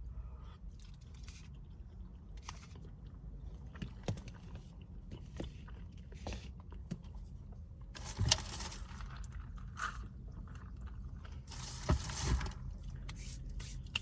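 Close-up eating sounds: chewing and small clicks of food and utensils, over a steady low hum. Two louder scraping, rustling stretches come about eight seconds in and again near twelve seconds, as of a fork or packaging being worked.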